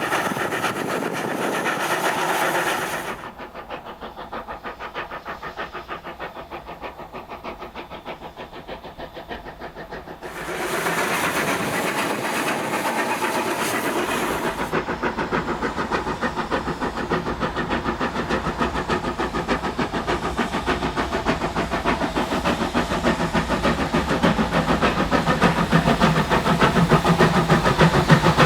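NZR Ww-class 4-6-4T steam locomotive Ww 480 working, a fast, even rhythm of exhaust beats. About three seconds in the sound drops and turns muffled; it comes back full about ten seconds in and grows steadily louder toward the end.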